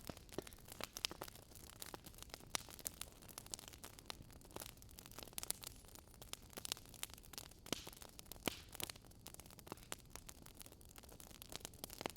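Fireplace wood fire crackling: irregular sharp pops and snaps, several a second, over a faint steady rush of wind.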